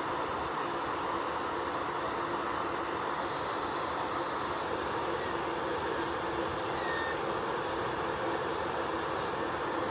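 Electric nail drill running steadily with a constant hum and hiss, as used to file off old gel polish.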